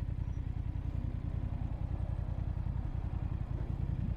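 Motorcycle engine running steadily while riding, with a rapid, even pulsing low in pitch.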